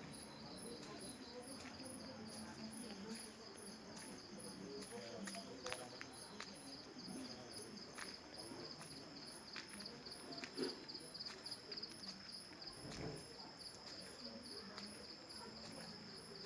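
Crickets chirping steadily in a high, evenly repeating pulse, with a few faint clicks and a low murmur beneath.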